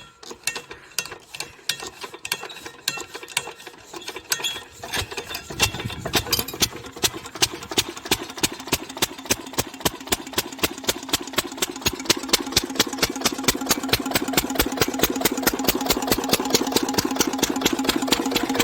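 An 8 HP single-cylinder farm engine being cranked over with uneven knocks, then catching about five seconds in. It settles into a steady, evenly paced run of firing beats that slowly picks up speed as it warms into running.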